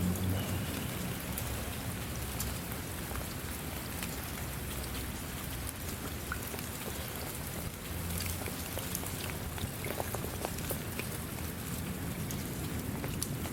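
Steady rain falling on a surface, with scattered close drops heard as small ticks over an even hiss and a low rumble underneath.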